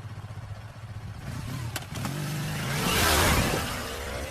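A motor vehicle's engine running, then revving up as the vehicle approaches, its noise swelling to a peak about three seconds in and fading as it passes.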